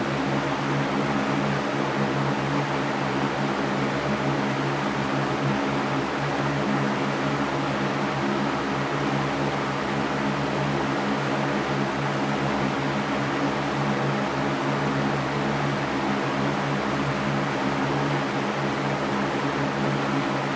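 Electric fan running steadily: an even rush of air with a low, steady motor hum beneath it.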